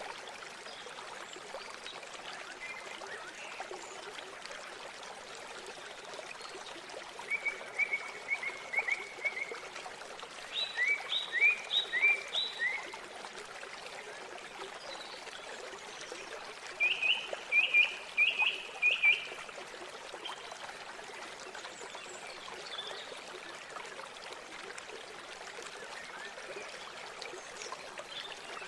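River water flowing steadily. Over it come three bursts of rapid, repeated short calls: one about eight seconds in, one around eleven seconds and one around eighteen seconds.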